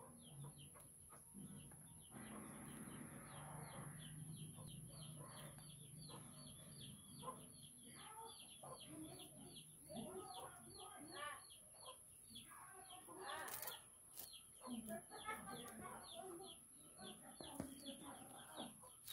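Faint background bird calls: a steady run of short, quick chirps, joined by longer, more varied calls from about halfway through. A steady high-pitched whine sits underneath.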